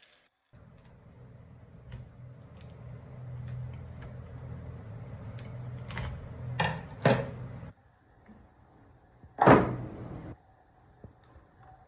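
A steady low hum with a few sharp clicks, cutting off near eight seconds, then one loud knock with a short ring about nine and a half seconds in: workshop handling noises.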